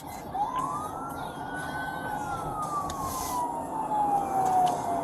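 Police siren in wail mode: one slow cycle, rising over about a second, holding briefly, then falling slowly for about three seconds before climbing again at the end, over a steady rush of vehicle noise.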